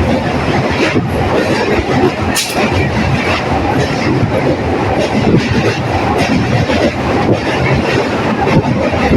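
Electric local (EMU) train running along the track: a steady loud rumble with repeated clicks as the wheels pass over rail joints.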